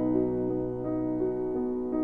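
Slow, soft piano music: held chords with a line of single notes that steps to a new note about every half second.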